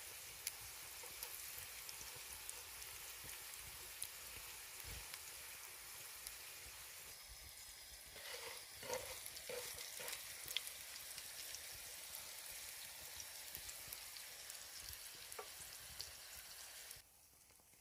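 Food sizzling as it fries in a pan: a steady hiss with small crackles. There are a few short clatters or scrapes of a utensil about halfway through, and the sizzling drops away abruptly just before the end.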